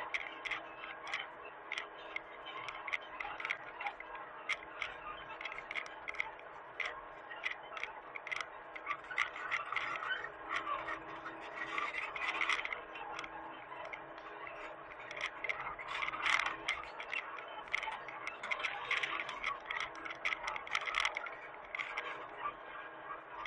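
Mini excavator working: a steady engine hum with a rapid, irregular clatter of clicks and scrapes over it, some louder bursts of scraping around the middle and near the end.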